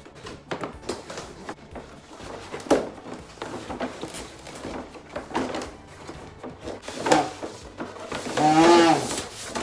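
Cardboard box and plastic packaging being handled and torn open, a run of rustles, crinkles and small knocks. Near the end a person lets out a drawn-out vocal sound.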